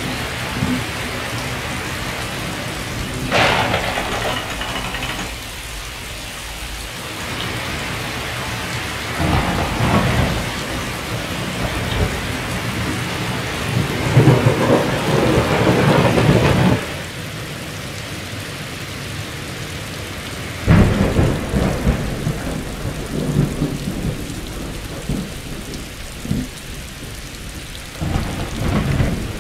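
A thunderstorm: steady heavy rain with thunder rolling in several swells, the loudest about halfway through, which cuts off suddenly.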